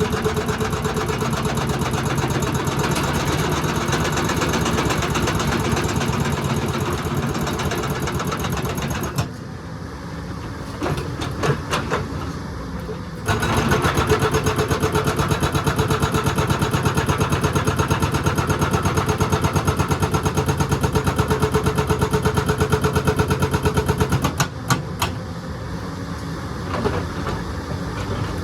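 Excavator's diesel engine running steadily. The engine sound drops quieter for a few seconds twice, once near the middle and once near the end, with a few sharp knocks around those drops.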